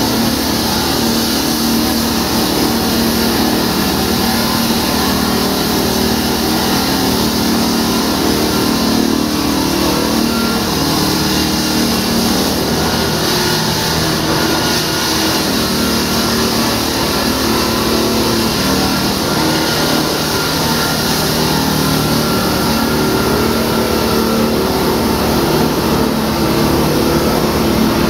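A loud engine running steadily, its pitch stepping slightly about halfway through, over a strong wide hiss.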